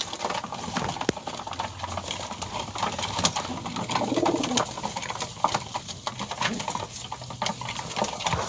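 Pigeons cooing, low and rolling, with scattered sharp clicks and knocks throughout.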